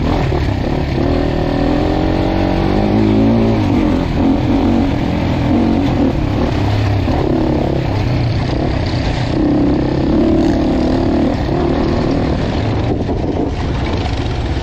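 Dirt bike engine running while riding, its pitch rising and falling as the throttle is worked.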